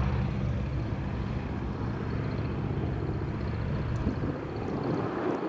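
Cessna 195's radial engine running with a deep, steady drone on departure; the deepest part of the sound fades away about four and a half seconds in as the aircraft draws away.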